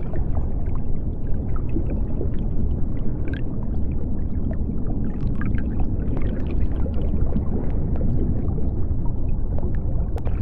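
Underwater sea ambience: a steady deep rumble of moving water, with scattered faint clicks and crackles.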